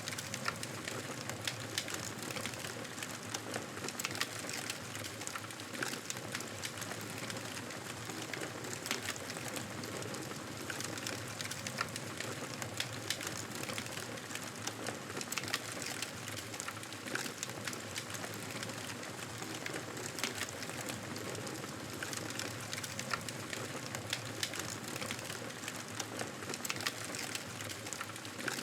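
Fireplace fire crackling: many small, irregular pops and snaps over a steady hiss.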